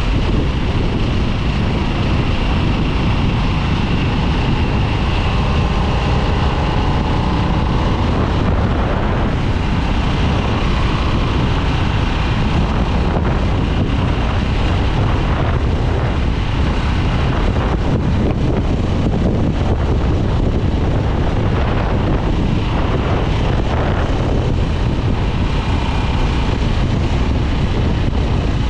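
2022 Harley-Davidson Nightster's Revolution Max 975T V-twin running steadily on the move, heard with heavy wind buffeting on the microphone.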